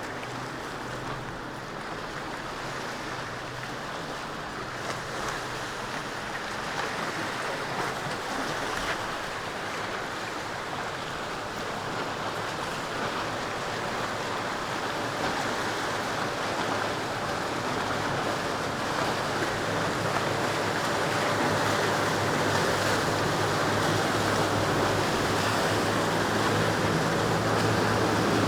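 Waves and surf rushing in the inlet with wind on the microphone, under the low drone of boat engines that grows steadily louder toward the end as a boat approaches.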